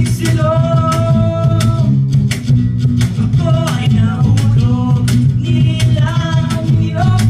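A voice singing held, melodic notes over strummed acoustic guitar chords.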